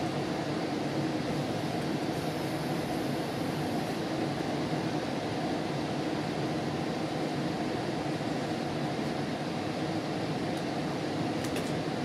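Steady running noise inside a moving GO Transit commuter train coach: wheels on the rails and the car's motion.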